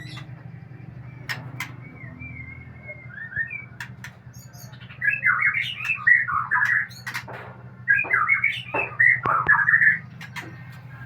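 White-rumped shama (murai batu) singing: soft twittering notes at first, then two loud phrases of rapid warbling starting about five and eight seconds in, with sharp clicks scattered between. A steady low hum runs underneath.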